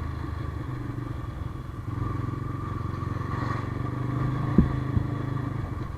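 Motorcycle engine running steadily while riding, with road and wind noise, picked up by an action camera's built-in mic. Two short sharp knocks a little over halfway through.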